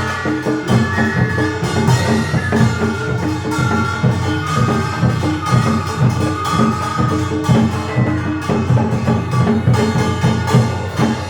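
Korean traditional orchestra (gugak gwanhyeonak) playing: held melody notes over a steady, busy beat of drum strokes.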